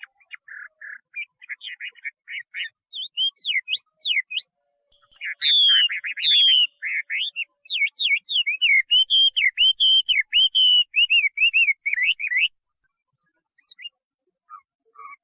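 Chinese hwamei (melodious laughingthrush) singing. Quick chattering notes build into loud, clear slurred whistles and then a fast run of repeated looping whistles. The song breaks off a few seconds before the end, and a few soft notes follow.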